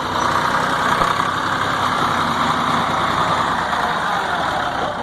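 Belarus tractor diesel engine running steadily.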